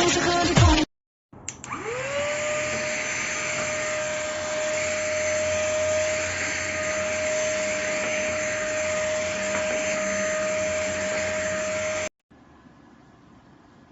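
Cordless stick vacuum cleaner (ST6101) starting up: its motor whine rises quickly to a steady pitch, and the suction hiss runs evenly for about ten seconds before it stops suddenly.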